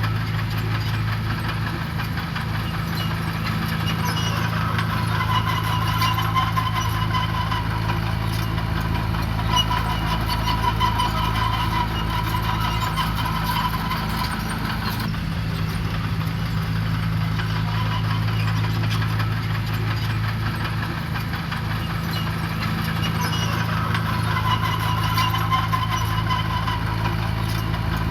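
Diesel engine of a heavy construction machine running steadily, with a higher whine that swells and fades now and then.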